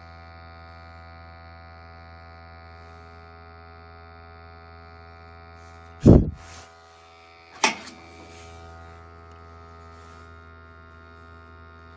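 Steady buzzing hum of running equipment at a gas boiler, broken by two sharp knocks about six and seven and a half seconds in; after the first knock the low part of the hum drops slightly.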